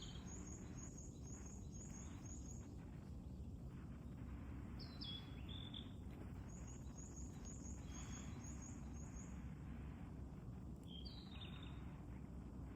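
Wild birds calling over a steady low background rumble: twice a run of short, high chirps at about four or five a second, and twice a lower call that falls in pitch, about five seconds in and again near the end.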